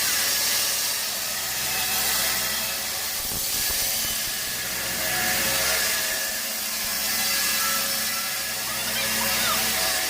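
Sawmill machinery running: a steady mechanical noise with a strong hiss, swelling and fading slowly in loudness.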